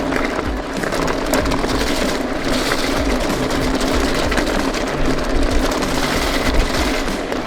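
Merida Big Trail 500 mountain bike rolling fast over a rough gravel track: a steady rush of tyre noise with the frame and parts rattling over the bumps.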